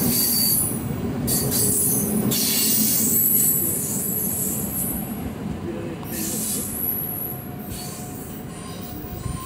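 NS double-deck electric train pulling out of the station and moving away, its running noise fading steadily. High-pitched wheel squeal comes and goes several times as the cars pass.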